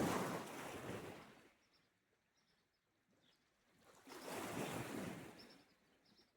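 Sea waves washing on the shore, twice: one wave fading out in the first second and a half, and another swelling and ebbing about four seconds in, with a quiet lull between. Faint short high chirps sound in the lulls.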